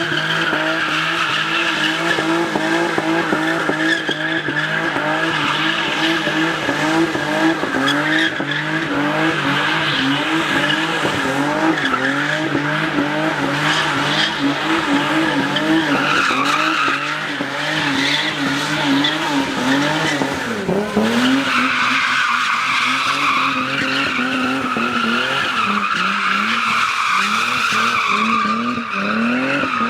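Car engine revving hard in repeated rising surges, about one or two a second, over continuous tyre squeal, as in drifting or a burnout. About two-thirds of the way through the revs drop away briefly and the squeal shifts in pitch.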